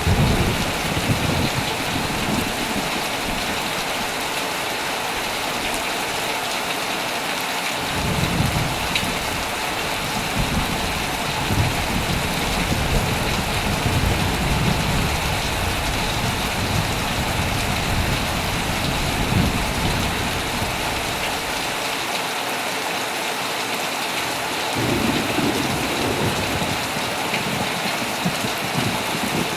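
Heavy rain falling steadily on a tent, with low rumbling thunder. The thunder breaks in right at the start, rolls on at length from about 8 to 21 seconds in, and rumbles again from about 25 seconds in.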